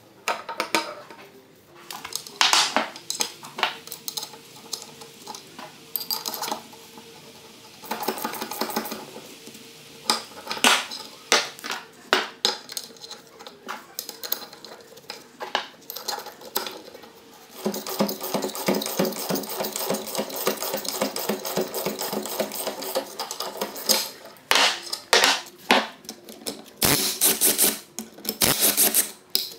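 Metal tools and parts of a BMW flat-twin motorcycle engine clinking and knocking against one another during disassembly, with a stretch of fast, even clicking for several seconds past the middle.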